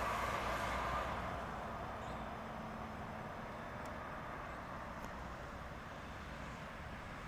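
Ford F-150's 351 V8 engine running, fading over the first two seconds to a steady low rumble.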